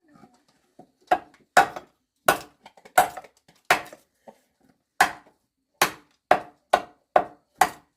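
A hand tool striking wood over and over, about eleven sharp blows that start about a second in, each with a short woody ring. The blows come roughly every three-quarters of a second and quicken to about two a second in the second half, as in working a piece of wood into shape.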